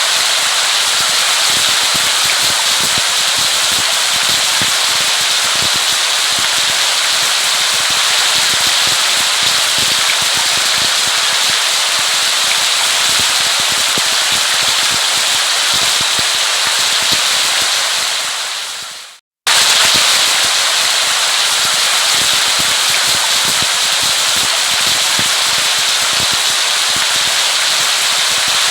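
Steady heavy rain: a dense patter of drops with a crackly edge. About 18 seconds in it fades away, stops for a moment, then cuts straight back in at full strength.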